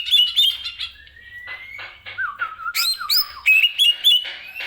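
Green leafbird (cucak ijo) singing a fast, varied song of sharp chirps and clear whistles, with a rising whistle about a second in and a run of down-slurred notes in the middle.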